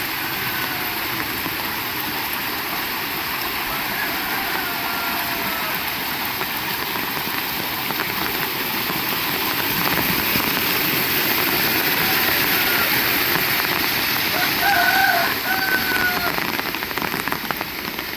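Heavy rain falling steadily and growing heavier partway through. A rooster crows faintly a few times, the clearest call about fifteen seconds in.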